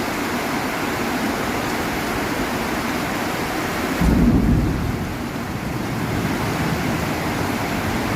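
Heavy rain falling steadily in a thunderstorm, with a sudden loud clap of thunder about four seconds in that rumbles and fades over about a second.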